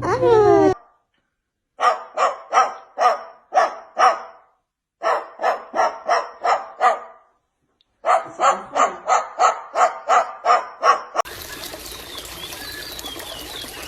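Three runs of quick, evenly spaced dog-like barks, about two to three a second, after a short falling call at the start. Near the end the barking stops and a steady hiss takes over.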